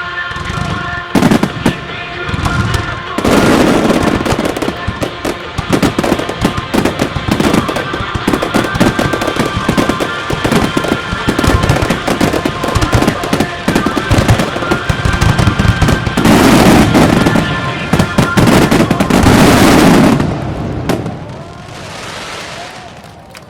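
Dense barrage of firework shells bursting and crackling in a music-synchronised starmine, with a song playing over loudspeakers. Near the end the heaviest volley of booming bursts comes in two waves, the finale, then the booms echo away and fade.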